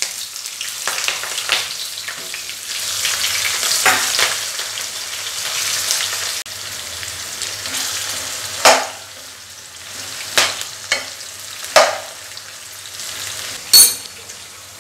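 Sliced onions and green chillies sizzling in hot oil in a nonstick kadai, stirred with a spatula. The steady hiss is broken by several sharp scrapes of the spatula against the pan.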